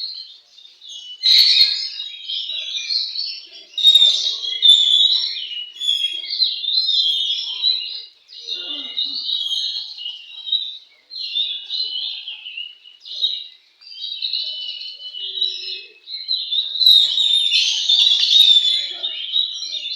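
Oriental magpie-robins (kacer) singing in rapid, varied, high phrases that run on almost without a break.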